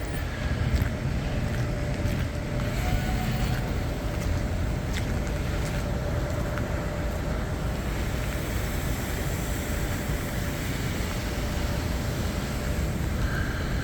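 Steady low rumble of motor vehicles in a city street, with a faint steady hum running through most of it and wind on the microphone.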